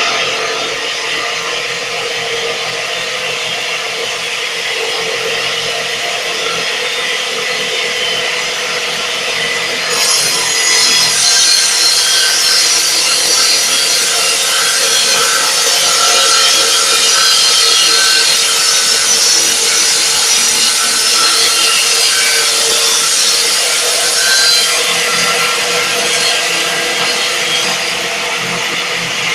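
Portable double-blade sawmill running steadily and sawing wood, with a constant machine tone under a rasping hiss. About ten seconds in, a harsher, higher hiss joins and continues.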